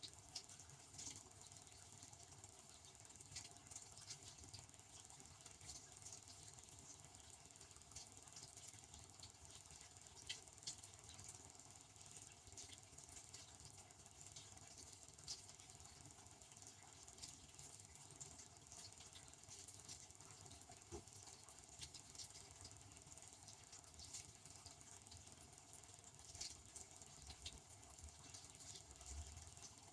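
Devanti benchtop dishwasher running, heard faintly as an irregular pattering with scattered light clicks over a steady hiss.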